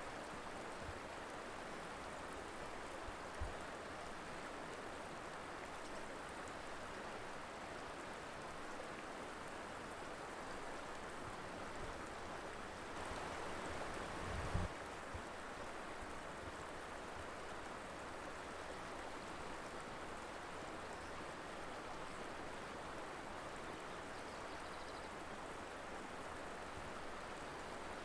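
Mountain river flowing, a steady rush of moving water. About halfway through the rush swells briefly, and there are two short low thumps, one early and a louder one about halfway.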